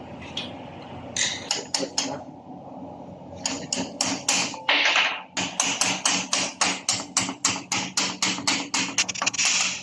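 A hammer striking repeatedly: a few blows, a pause, then a steady run of about three blows a second.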